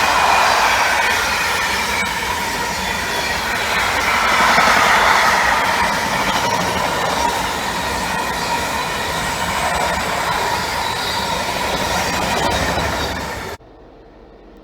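A train passing close by: wheels running on the rails with a high, wavering squeal over the rolling noise. It cuts off suddenly near the end.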